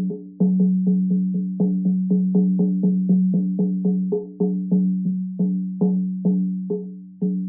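Shamanic frame drum beaten in a steady fast rhythm, about four strikes a second, slowing near the end. Each strike rings on into a deep humming tone.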